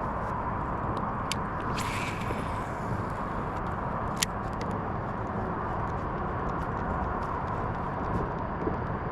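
Steady rushing outdoor noise of river water and wind on an open river, with scattered small clicks and a sharper tick about four seconds in.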